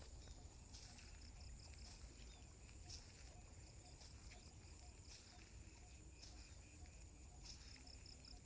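Countryside insects trilling steadily at a high pitch, with a rapid pulsing chirp underneath. Soft footsteps land about once a second.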